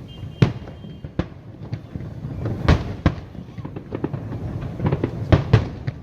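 Fireworks display: aerial shells bursting in a rapid, irregular run of sharp bangs over a low rumble, the loudest pairs near the middle and near the end.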